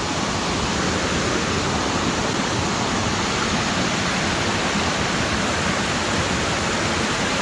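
Steady rush of fast-flowing stream water, an even loud hiss with no breaks.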